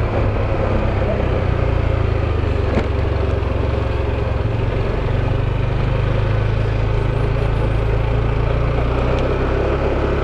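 Motorbike engine running steadily, heard onboard while riding a rough road: a low drone whose pitch shifts slightly about halfway through, with a single faint knock nearly three seconds in.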